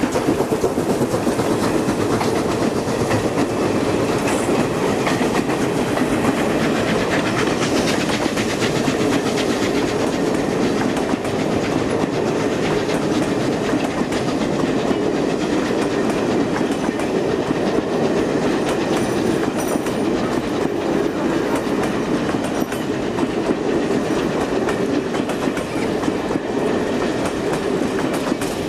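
A train running on jointed rail, its wheels clicking steadily over the rail joints under a continuous rolling rumble.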